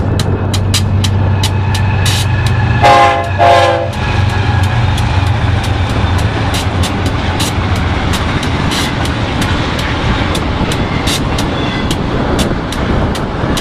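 BNSF freight train passing at speed: a low steady diesel locomotive drone, two short horn blasts about three seconds in, then the rolling noise of the railcars with sharp wheel clicks on the rail.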